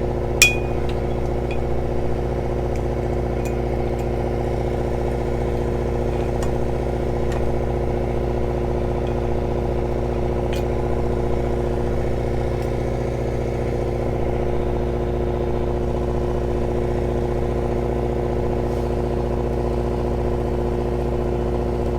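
An engine running steadily at an even idle, a low hum with several fixed pitches. A sharp click about half a second in, with a few faint ticks after.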